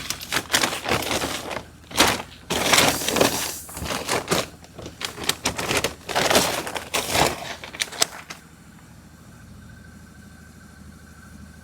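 Pelleted pig and sow feed being scooped: a run of irregular rattling, crunching rushes of pellets that stops about eight seconds in.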